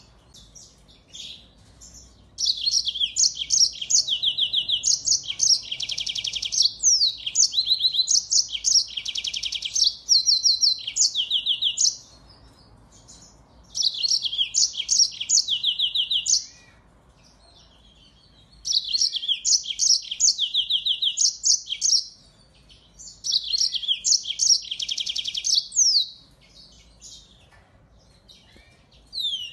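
A small finch singing a fast, high-pitched song of chirps, quick sweeping notes and rapid trills, in four bouts of about two to nine seconds with short pauses between them.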